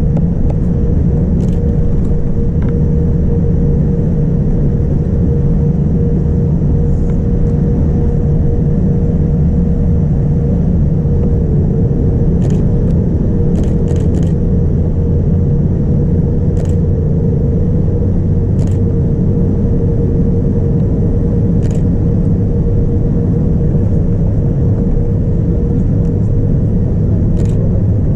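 Airliner cabin noise on a Boeing 787-9 Dreamliner: a steady roar of airflow and Rolls-Royce Trent 1000 engines, with a low rumble and a steady hum. A few faint clicks sound here and there.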